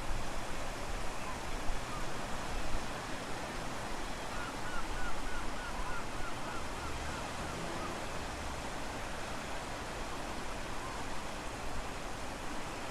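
Strong wind gusting over the microphone with a steady wash of low-tide surf. Midway, a run of about ten short, quick chirps, around four a second, sounds over the noise.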